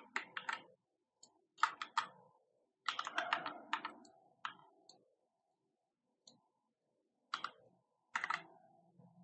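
Computer keyboard being typed on in several short flurries of keystrokes, with pauses of a second or more between them.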